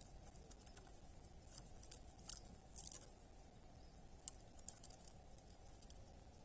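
Faint, scattered crisp clicks and crunches, busiest in the first half with one sharper tick later, typical of a Eurasian hobby tearing prey at the nest.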